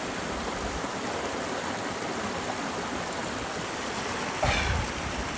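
Mountain creek water running steadily over rocks. About four and a half seconds in comes a brief louder bump with a low rumble.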